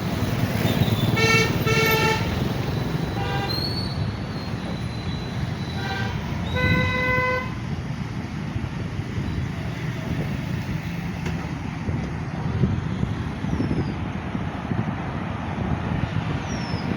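Road traffic running steadily, with vehicle horns honking in the first half: two quick beeps just after a second in, a few fainter ones, and a longer honk around seven seconds.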